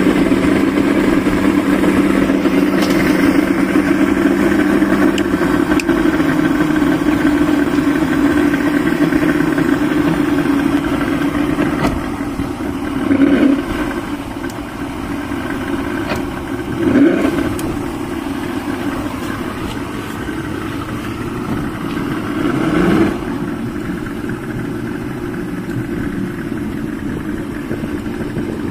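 Yamaha 200 hp two-stroke outboard motor running at a steady idle, with three brief blips of the throttle: about halfway through, a few seconds later, and again near the end.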